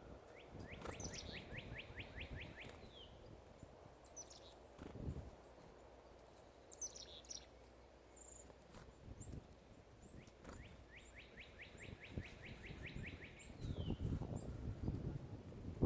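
A songbird singing: a fast trill of about a dozen notes ending in a short falling note, given twice about ten seconds apart, with short high chirps in between. Low rumbling noise swells near the end.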